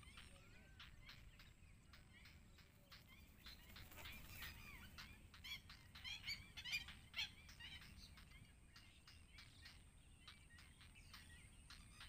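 Heron chicks calling: a faint, rapid chatter of short chirps and clicks, with a louder flurry about six to seven seconds in.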